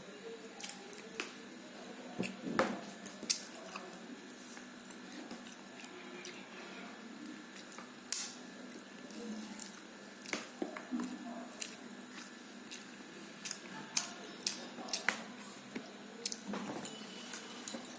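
Eating sounds from a plate of rice and curries: soft squishing of food being mixed and handled, with irregular clicks and clinks against the plate, the sharpest a few seconds in and clustered near the end.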